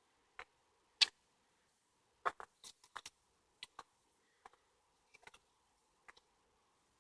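Footsteps on a woodland path: scattered, irregular crackles and clicks of leaf litter and twigs underfoot, the sharpest snap about a second in and a quick run of crackles between two and three and a half seconds.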